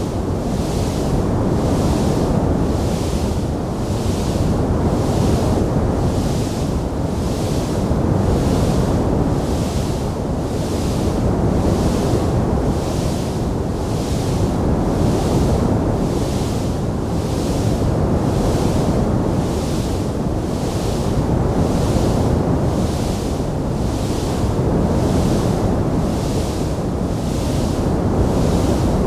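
Wood fire burning in a fireplace: a steady, loud rushing noise, with a hiss in its upper part that swells and fades about once a second.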